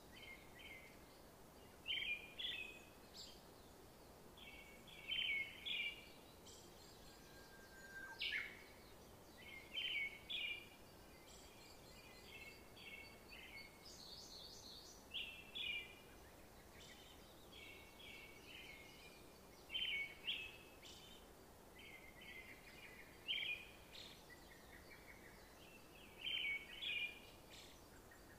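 Small birds chirping: short clusters of quick high chirps every second or two, over a faint steady hiss.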